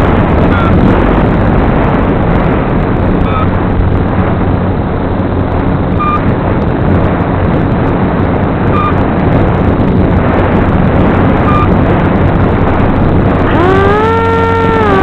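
Steady wind rush on the microphone of a flying FPV wing in flight. Near the end the electric motor's whine rises in pitch and holds.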